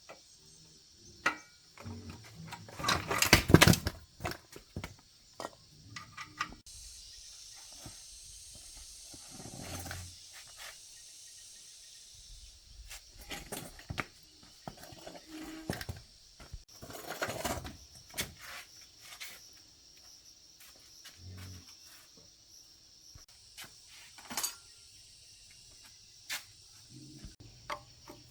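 Workshop handling of motorbike parts and tools: scattered clicks, clinks and knocks, with a loud rushing burst about three seconds in and a steady high hiss for several seconds after it.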